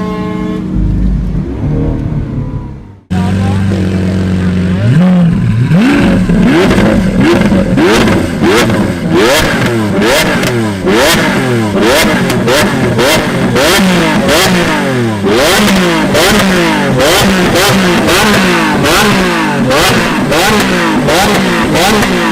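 Performance car engines revving hard, pitch rising and falling over and over, with sharp exhaust cracks among the revs. For the first three seconds background music plays; it cuts off suddenly and the engines come in.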